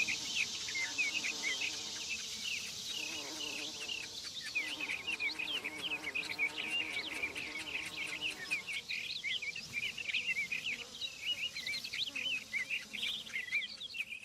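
Nature ambience of many birds chirping quickly and constantly, high-pitched, over a steady high insect drone.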